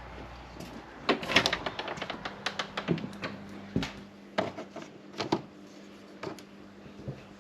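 Irregular clattering knocks and clicks, densest in the first half, over a faint steady hum.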